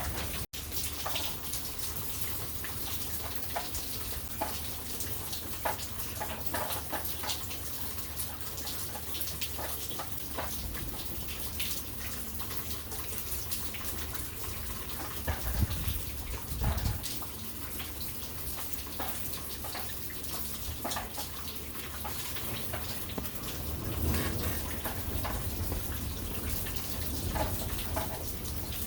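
Steady rain falling, with many individual drops tapping close by and a few low thuds about halfway through.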